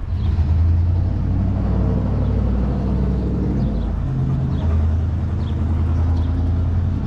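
A motor vehicle's engine running close by: a steady low rumble that eases briefly about four seconds in, then comes back.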